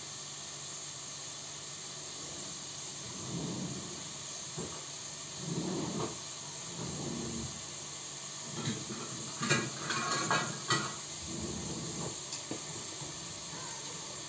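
Meat and chopped onion frying in olive oil in a pot, a steady hiss, with scattered soft knocks of a spoon and pot and a few sharper clicks about ten seconds in.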